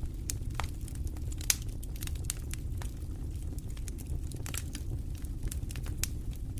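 Campfire crackling with frequent sharp pops and snaps, one louder pop about a second and a half in, over a steady low rumble of wind.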